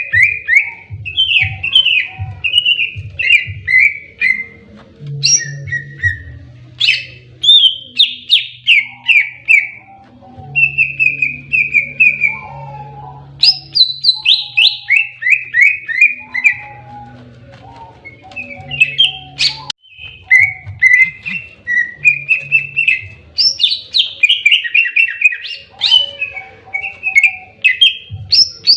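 Green leafbird (cucak ijo) singing its aggressive 'tarung' fighting song: loud phrases of rapid chirps, each note falling in pitch, following one after another with brief pauses. A low hum sounds underneath at times.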